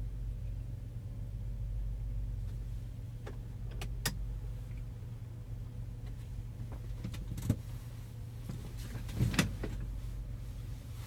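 Semi truck's diesel engine idling, a steady low hum heard inside the cab, with a few scattered clicks and knocks, the loudest a quick double knock near the end.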